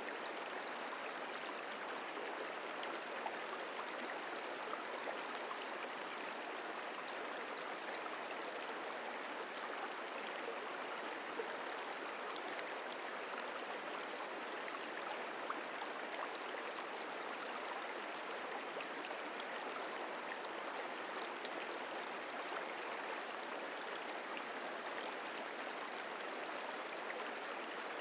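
The Merced River flowing, a steady rush of running water with no change in level.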